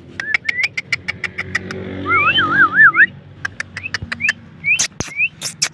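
Indian ringneck parrot chirping and clicking: a quick run of clicks with short rising chirps, a warbling whistle about two seconds in, then more sharp clicks and chirps.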